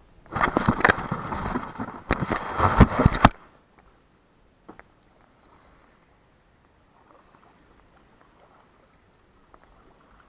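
Kayak paddle splashing and knocking for about three seconds, then nearly quiet apart from one short knock.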